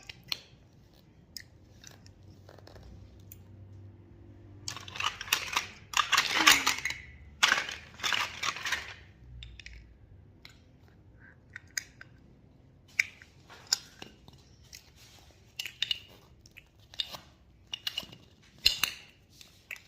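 Irregular crunching and chewing noises, with the heaviest crunching about five to nine seconds in and scattered sharp clicks after that.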